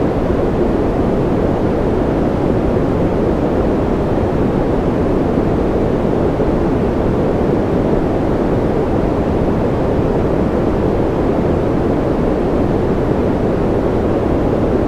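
Steady, even noise for sleep, deep and dark in tone, with little high hiss and no separate drops or clicks standing out.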